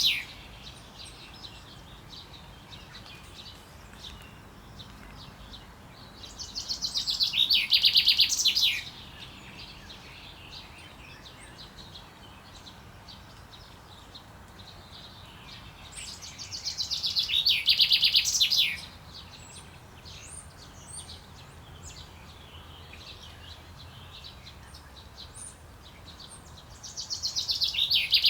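Male common chaffinch singing its breeding-season song: phrases about ten seconds apart, each a rapid run of notes that grows louder over about three seconds. Two phrases are heard in full, and a third starts near the end.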